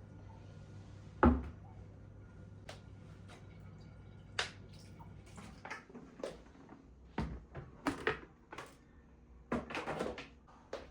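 Household handling noises: a sharp knock about a second in, then scattered clicks and light knocks, over a low steady hum that fades out about halfway.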